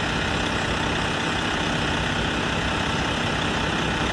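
Semi truck's diesel engine idling steadily while a hydrogen carbon-cleaning treatment runs through it.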